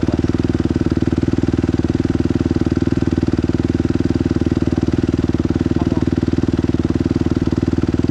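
Dirt bike engine idling steadily, with an even rapid pulsing and no revving.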